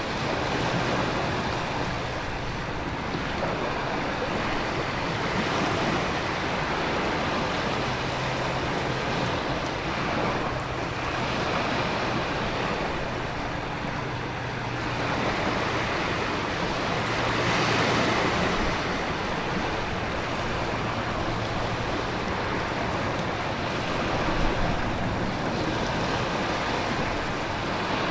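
Storm ambience of heavy rain, wind and surf: a steady rushing noise that swells and eases every few seconds as waves surge.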